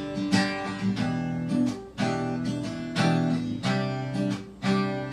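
Acoustic guitar strumming chords in a steady rhythm, an instrumental break between sung lines of a song.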